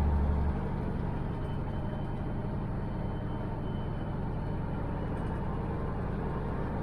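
Diesel semi-truck engine running under way, a steady low rumble with a faint high turbo whistle; a louder surge of engine noise drops away about half a second in.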